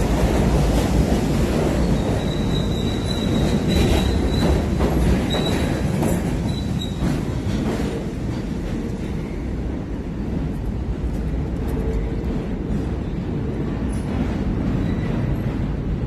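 Subway train running on steel rails with a steady rumble and a few clicks. A thin, high-pitched wheel squeal comes and goes from about two to seven seconds in.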